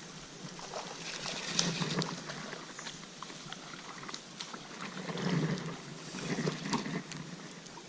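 Water splashing with scattered small clicks and ticks as a hooked sooty grunter is fought and reeled in on rod and line.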